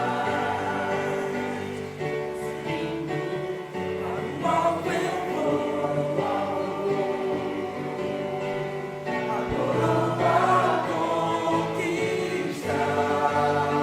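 Church choir singing a hymn in several voice parts, with long held notes.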